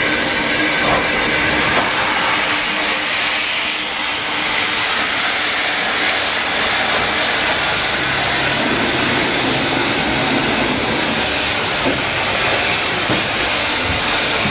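Kent and East Sussex Railway heritage train running along the line, a loud steady running noise with hiss and a few faint steady tones in the first few seconds.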